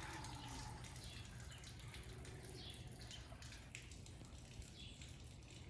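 Faint outdoor ambience: scattered short bird chirps over a low, steady background rumble.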